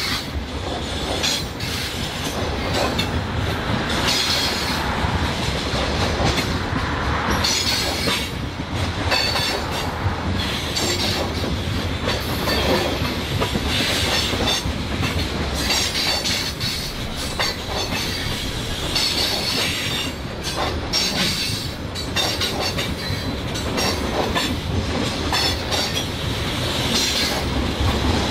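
Tank cars of an oil train rolling past: steady clatter of steel wheels on the rails, with recurring high wheel squeal.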